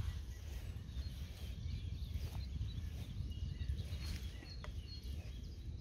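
Scattered faint bird chirps over a low, steady rumble.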